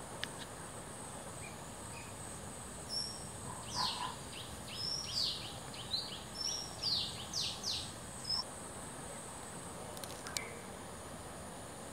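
Birdsong: a bird sings a run of about a dozen quick, falling whistled notes, starting about three seconds in and ending about eight seconds in, over a steady high-pitched insect drone.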